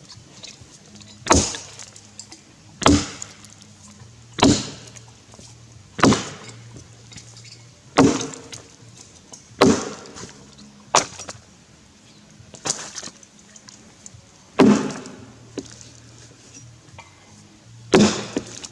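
Tassie pattern axe chopping into a Grey Gum log: about ten sharp strikes, roughly one every one and a half seconds, with a longer pause before the last.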